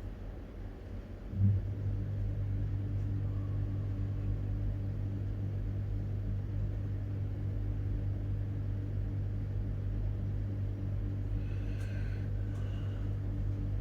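A steady low mechanical hum, like a motor running, that starts abruptly about a second and a half in. Two brief high-pitched sounds come near the end.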